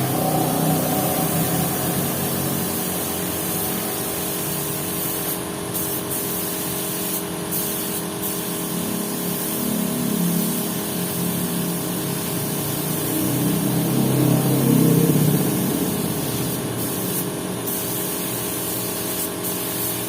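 Steady hiss with a machine hum beneath it, swelling lower and louder a few times, about a third and two thirds of the way through.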